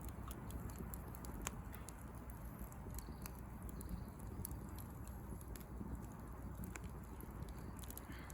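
Wood fire of dried branches crackling, with irregular sharp snaps and pops over a steady low rumble.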